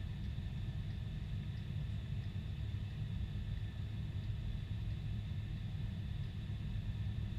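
Boeing 747-400 airliner's jet engines and airflow: a steady low rumble with faint steady high tones, unchanging throughout.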